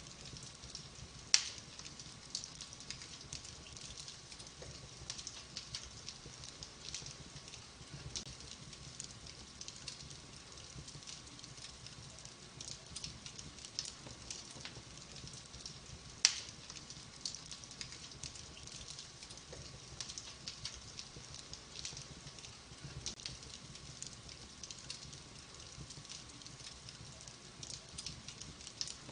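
Fire in a fireplace crackling with dense small ticks, and two loud sharp pops, one about a second in and one about halfway through.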